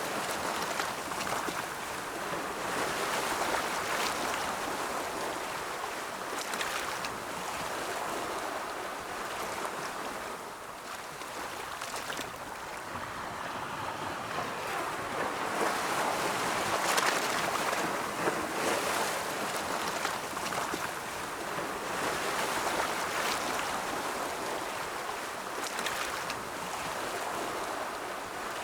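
Ocean waves rolling in and breaking on the shore: a steady wash of surf that swells and fades over several seconds at a time, with the strongest surge a little past the middle.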